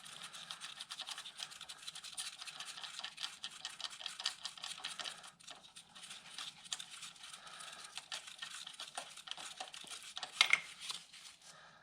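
Faint, rapid scratching and light irregular clicking of hand work on metal as the loosened crankshaft pulley bolt is wound out.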